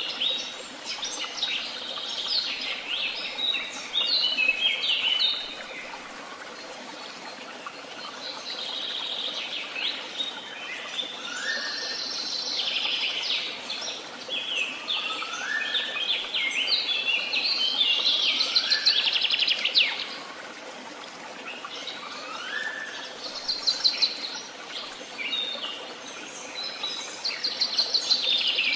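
Several woodland songbirds singing at once, dense overlapping chirps and rapid trills, with one bird repeating a short rising whistle about every four seconds, over a soft steady outdoor hiss.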